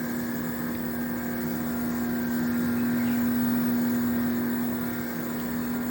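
Outdoor unit of a Samsung WindFree 1.5-ton inverter split air conditioner running: a steady hum over an even rush of noise. This is the normal running noise of a healthy unit.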